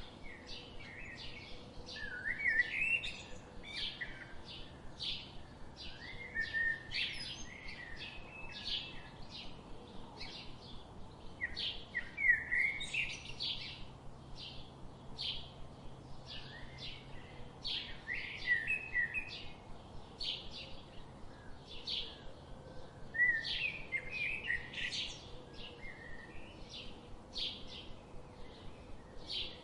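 Birds singing: one keeps repeating a short, high chirp about twice a second, while another sings brief, lower warbling phrases every four to six seconds.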